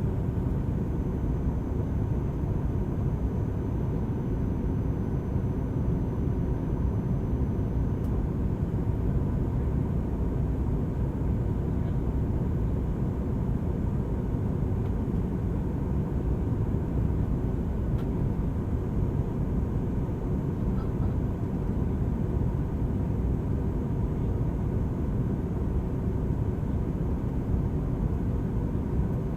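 Steady cabin noise inside a Boeing 737 MAX 8 in flight on approach: an even, low rumble of airflow and engines, with a faint steady tone.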